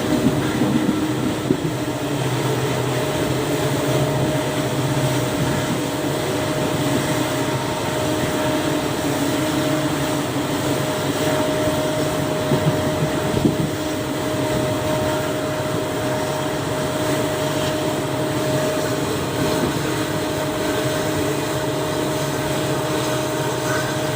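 WDP4B diesel locomotive's EMD 710G3B two-stroke V16 engine running steadily, with a steady high tone running through it.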